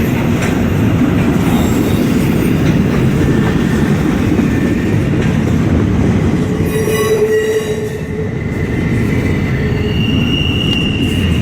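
Freight train rolling past, its steel wheels rumbling on the rails, with brief wheel squeals: one about seven seconds in and a higher, held one near the end.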